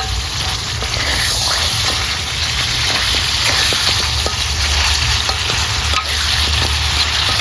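Pieces of waterhen meat sizzling steadily in hot oil with fried spice paste, stirred with a spatula that clicks against the pan now and then.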